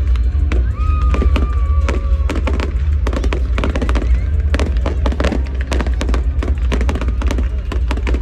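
Fireworks going off in quick irregular succession, many sharp bangs and crackles with a heavy low rumble underneath, and music playing along.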